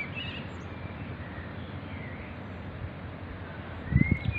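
Outdoor ambience: a steady low rumble with faint bird chirps scattered through it. A few loud low thumps come close together near the end.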